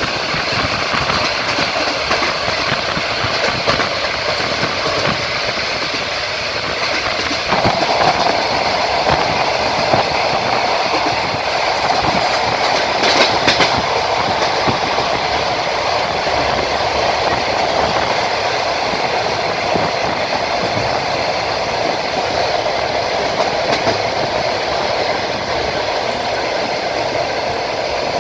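Passenger train running on the rails, its wheels clicking over the track joints against a steady rushing rumble. The noise grows a little louder about seven seconds in.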